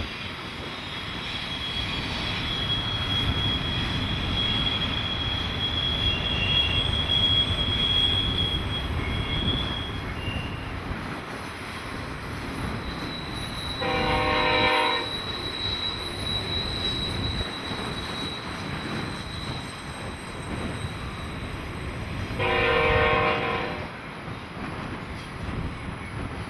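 A train rolling by with a steady rumble, its wheels giving a high, steady squeal for the first ten seconds or so. The locomotive's horn sounds twice, about nine seconds apart, each blast a second or so long.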